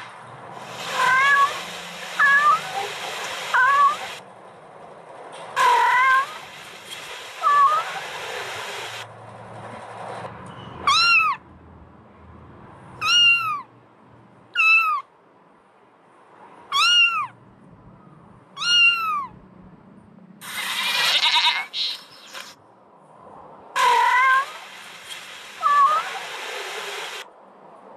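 Kittens mewing over and over: high, short mews, some in quick clusters with a hiss behind them, and a run of single rising-and-falling mews about two seconds apart in the middle.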